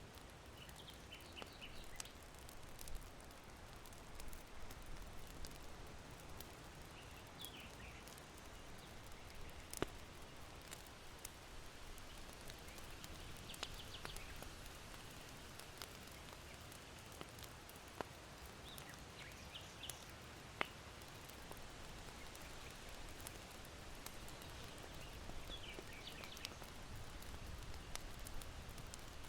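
Charcoal fire in an irori hearth giving occasional sharp pops, with small birds chirping in short phrases every few seconds over a faint, steady wind.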